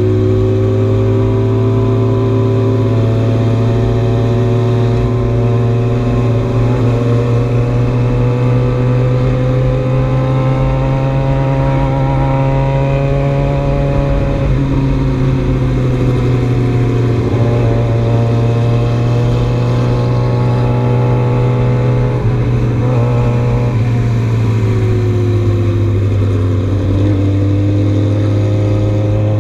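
Motorcycle engine running under way at road speed, its pitch rising and falling gently as the throttle changes and dipping a couple of times, with steady wind rush under it.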